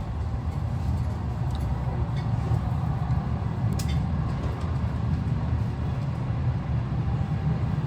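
Moving passenger train: a steady low rumble of the running gear, with a faint click about four seconds in.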